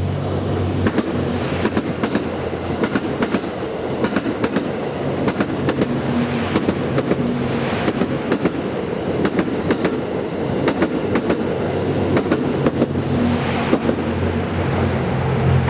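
87-series Twilight Express Mizukaze diesel train passing: a steady engine hum under rapid groups of wheel clicks as the bogies cross rail joints.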